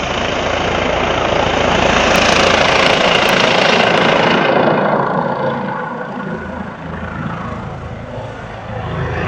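Air ambulance helicopter's rotor and turbine noise, loud and close. It swells over the first few seconds, eases off from about five seconds in, and builds again near the end as the helicopter manoeuvres in the wind while trying to land.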